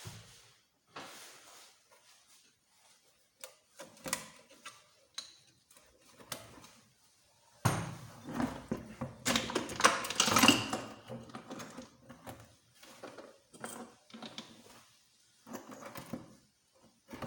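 Metal engine parts and hand tools being handled on a workbench: scattered clicks and knocks, with a busier run of clattering about eight to eleven seconds in.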